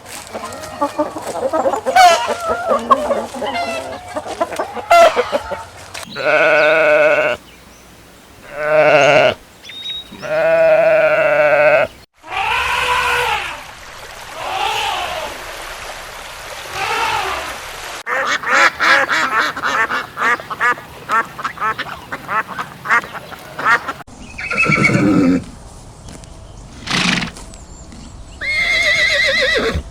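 Calls of several different farm animals in turn, changing about every six seconds: a run of drawn-out pitched calls, then rising-and-falling calls, then a fast rapid chatter, then more calls.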